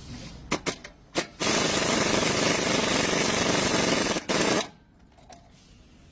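Impact wrench: a few short blips about half a second and a second in, then about three seconds of rapid, loud hammering with a brief break near the end, stopping abruptly.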